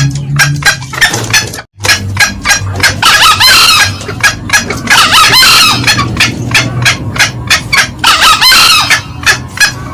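Green junglefowl calling: rapid cackling clucks, about four or five a second, with three longer crowing calls about three, five and eight seconds in. The recording cuts out briefly near two seconds in.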